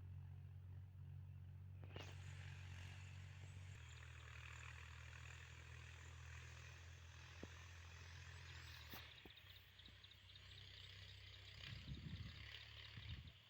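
Mahindra tractor's diesel engine running steadily, faint and low-pitched, with a high hiss over it and a couple of sharp clicks.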